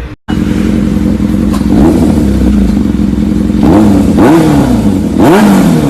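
Motorcycle engine running and being revved in short throttle blips, the pitch jumping up and falling back several times, most sharply in the second half.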